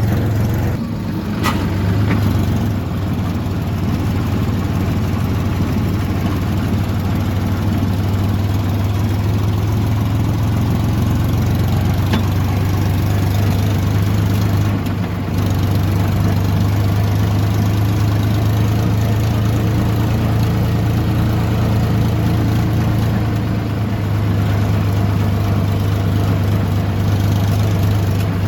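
Diesel tractor engine running steadily under way, a constant low drone.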